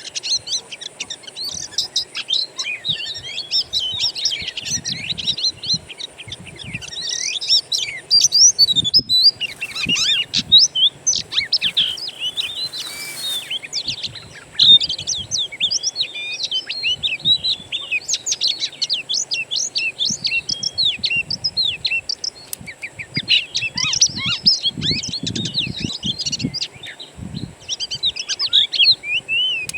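Wild songbirds singing: a dense, continuous tangle of quick chirps and twittering phrases, with a brief dropout about nine seconds in.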